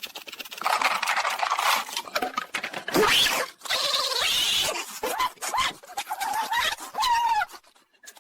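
A pet animal making short pitched vocal sounds over rustling noise, fading out near the end.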